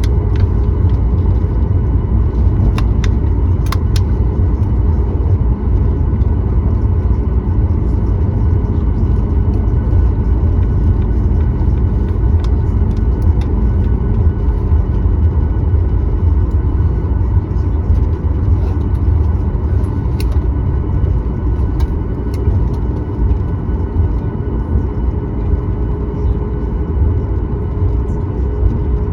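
Steady low rumble inside the cabin of a Boeing 737-9 MAX, from its CFM LEAP-1B engines and airflow, with faint steady tones and a few light clicks.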